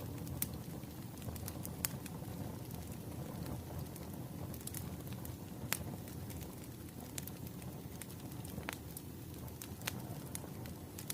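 Wood fire burning: a steady low hiss of flames with irregular sharp crackles and pops from the burning logs.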